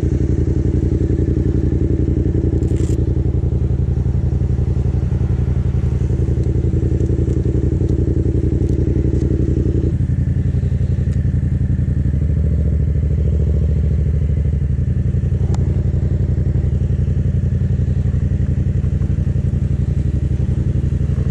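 Yamaha 700 cc motorcycle engine running with a steady low note, shifting slightly about ten seconds in.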